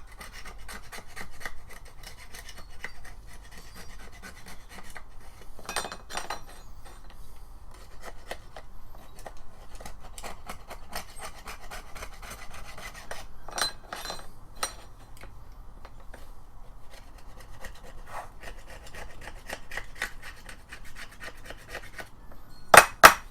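Old gasket residue being scraped off a trimmer attachment's mating surface by hand: continuous rapid, rough rasping strokes. A few sharper clicks break in, and two loud knocks come near the end.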